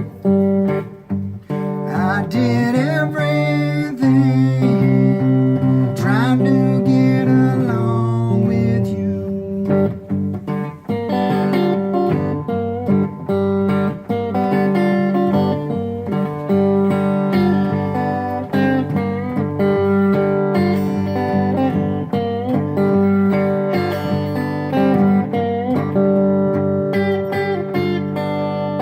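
Acoustic guitar playing a repeating Mississippi Hill Country blues riff, with string bends sliding the pitch up in the first several seconds.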